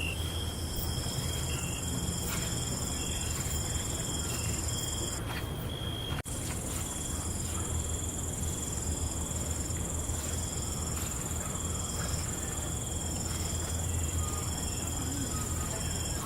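Night crickets chirping, a steady high trill with short repeated chirps over it, above a low steady rumble. The sound drops out for an instant about six seconds in.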